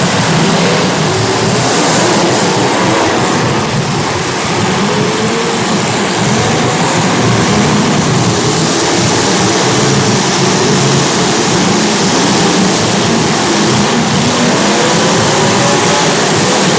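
Several small race car engines running together during a race, a steady loud roar with engine notes rising and falling as the cars rev and ease around the track.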